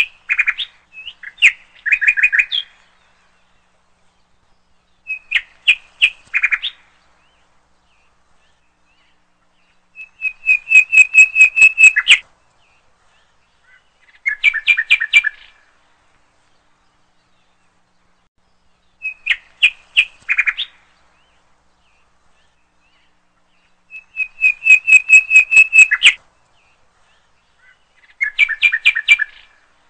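A songbird singing in short, repeated phrases, one every four to five seconds. Each phrase is a quick run of evenly repeated chirps, and several end in a lower, buzzier run.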